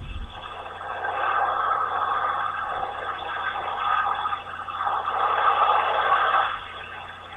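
Washworld Razor touchless car wash machine running, a rushing spray-and-water noise heard from inside the car. It swells about a second in, dips briefly twice, and fades near the end.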